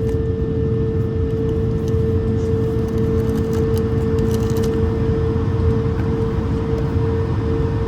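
Steady cabin noise inside an Airbus A220-300: a constant droning hum over a low rumble, with a few faint light ticks around the middle.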